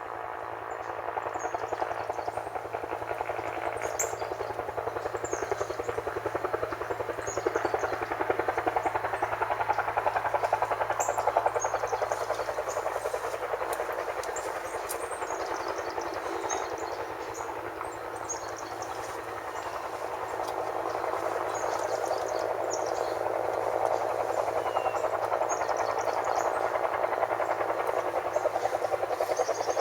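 Helicopter flying over, its rapid rotor beat growing louder in the first seconds, easing about halfway through and swelling again, with small birds chirping high above it.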